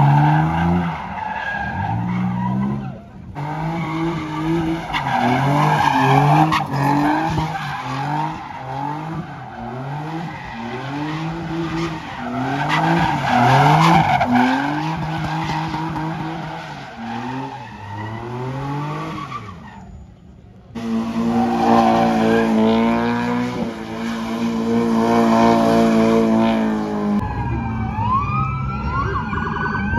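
Car engine revving hard over and over, its pitch climbing and dropping, with tyres skidding and squealing as in donuts or burnouts. Near the end a siren wails in sliding rises and falls.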